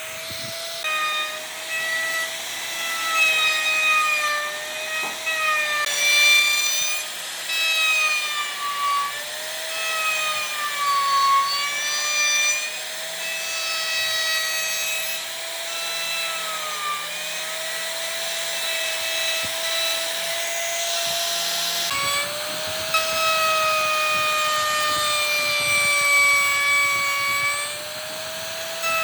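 An electric power tool working wood: its motor whines steadily, the pitch sagging and recovering every few seconds as it is pressed into the work. It breaks briefly about two-thirds of the way through and picks up again.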